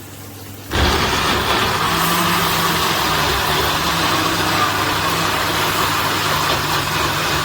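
Salter NutriPro 1000 blender's 1000 W motor switching up under a second in and running steadily and loudly. The owner says something is not right with the motor, with plastic fragments falling from inside the base.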